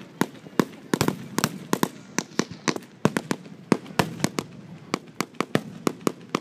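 Fireworks going off in a rapid, irregular string of sharp pops, about four a second.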